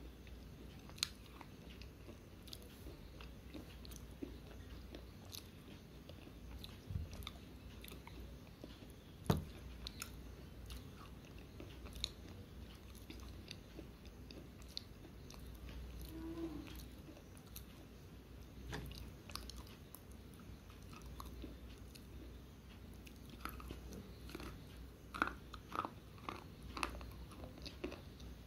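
Slate pencil being bitten and chewed close to the microphone: scattered sharp crunches and clicks as the chalky stick breaks between the teeth. One louder crunch comes about a third of the way in and a quick run of crunches near the end, all faint.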